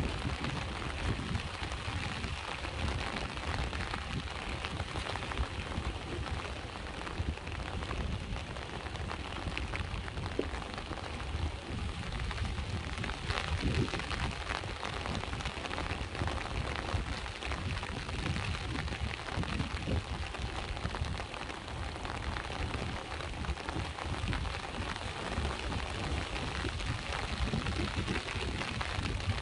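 Steady rain with many small drop taps, over a low rumble of sea waves on the shore.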